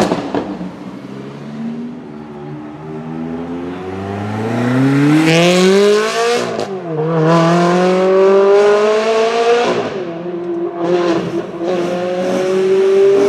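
High-performance car engine accelerating hard through the gears, its pitch climbing steadily and then dropping sharply at upshifts about six and ten seconds in.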